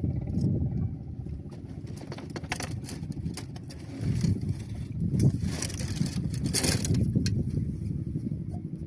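Wind buffeting the microphone: a low rumble that swells and fades in gusts, with scattered light ticks and rustling, strongest around the middle.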